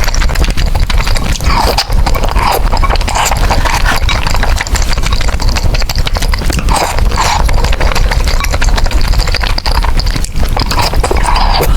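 Close-miked eating of spicy noodles: continuous wet chewing and smacking clicks, with repeated slurps.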